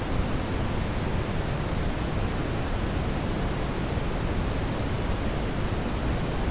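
Steady brown noise: an even, deep rushing hiss weighted toward the low end, with no events or changes.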